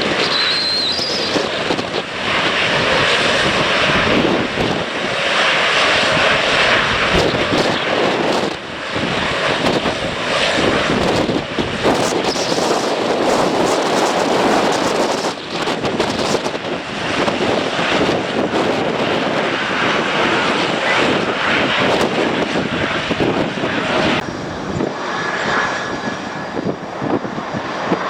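Airliner engines running loud, mixed with wind gusting and buffeting on the microphone.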